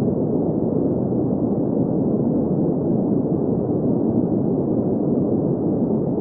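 Green noise: a steady, even hiss with its energy in the low and middle range and nothing above the treble, unchanging throughout.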